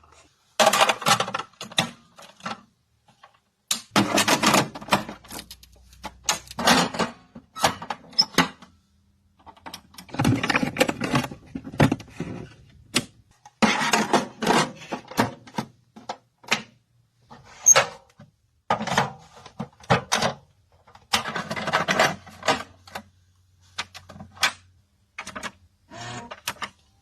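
Irregular bursts of mechanical clattering and clicking, stopping and starting every second or two.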